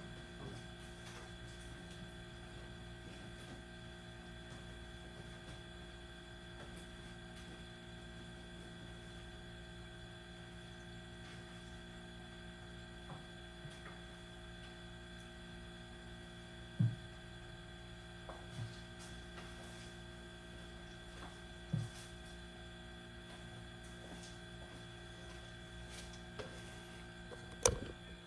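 Steady electrical hum with several pitched tones, and four short knocks in the second half, the last one the loudest.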